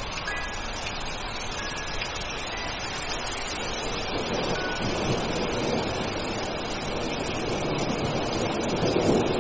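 Steady rush of a rainstorm that swells in the lower range from about four seconds in, with a few faint short high tones in the first half.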